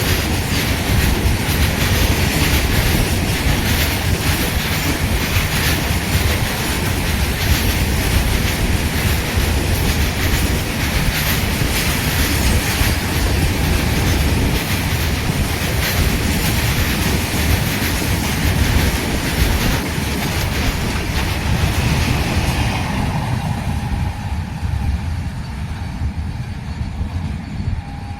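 Train passing close by at speed: a steady rumble with the clatter of wheels over the rails. The higher rattle dies away over the last few seconds.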